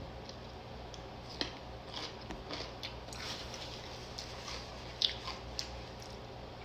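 A person biting into and chewing a crunchy dill pickle: short crisp crunches a little over a second in, several more around two to three seconds in, and a couple more about five seconds in.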